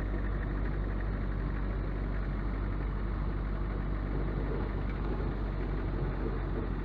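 A vehicle engine running steadily, a low, even hum with no change in pace.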